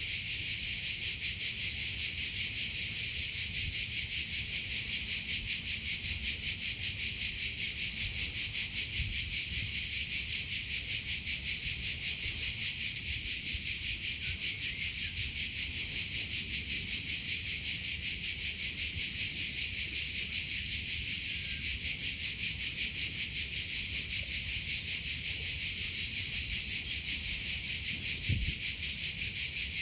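Cricket chirping without pause, a high-pitched, fast and even pulsing trill.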